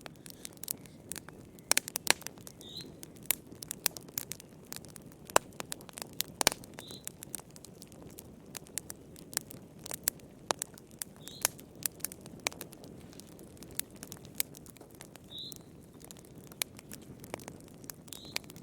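Wood fire crackling, with irregular sharp pops over a low steady rush. A single bird gives a short chirp every few seconds.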